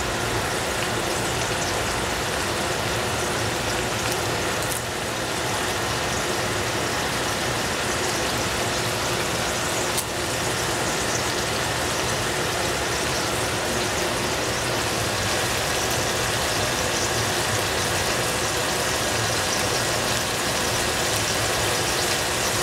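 Steady hiss of food sizzling as it fries in a pan, with a low hum underneath.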